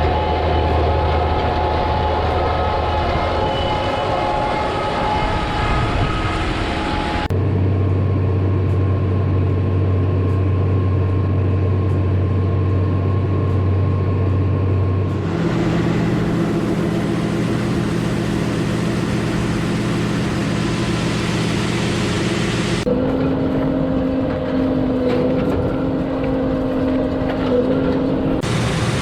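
Heavy farm machinery running with a steady engine hum, the pitch and character changing abruptly four times as different recordings are cut together.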